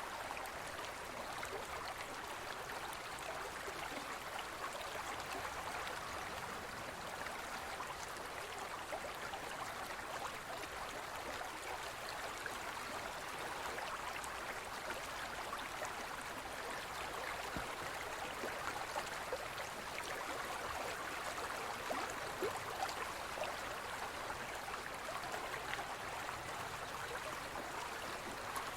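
Shallow forest stream flowing, a steady babble of water with many small splashes.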